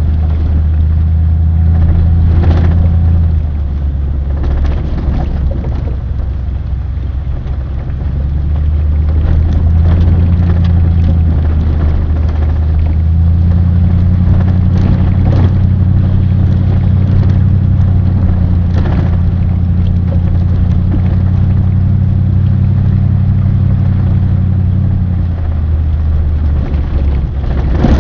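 A motor vehicle driving, its engine and road noise making a steady low drone with a few faint knocks. The drone drops about three seconds in and builds back up over the next several seconds.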